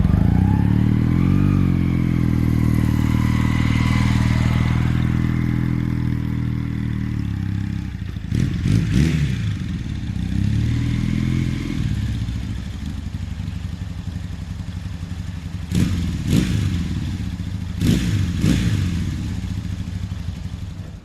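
1984 Honda CB450SC Nighthawk's parallel-twin engine running, its note rising and falling several times as it is revved.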